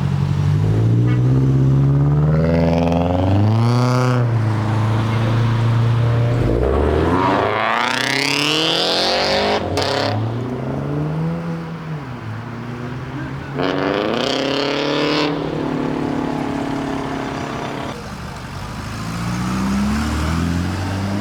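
Cars accelerating hard one after another. The engines rev up sharply in pitch and then drop back, about three times.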